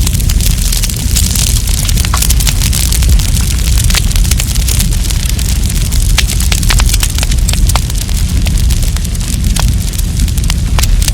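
Wood campfire burning, with frequent, irregular sharp crackles and pops over a steady low rumble and hiss.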